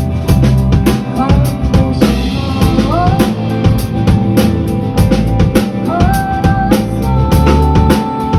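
A band playing together: a drum kit keeps a steady beat under a bass line, with a lead instrument sliding up into long held notes.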